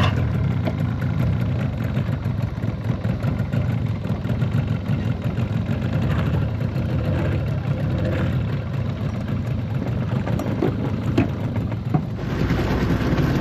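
Outboard motor of a small aluminium tinny running steadily, cutting in suddenly.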